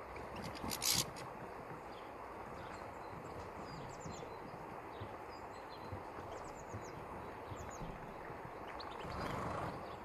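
Faint, short, high chirps of small birds, a few scattered through, over steady outdoor background noise, with a brief loud rustling burst about a second in.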